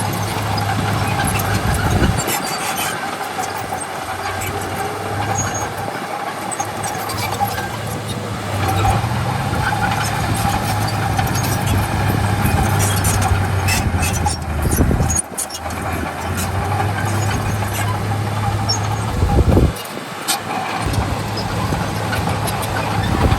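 Diesel engine of heavy earthmoving machinery running under load, with a steady high whine above the engine note and scattered sharp metallic clicks and clanks. The engine note briefly drops out twice, about two-thirds of the way through and near the end.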